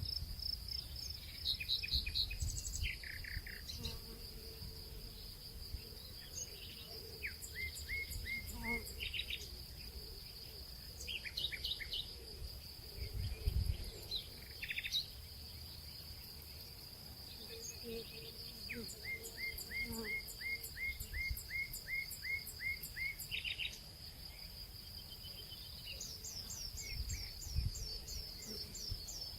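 Nature ambience: a steady high insect trill with birds calling in runs of quick, evenly repeated chirps. A few soft low thuds come and go.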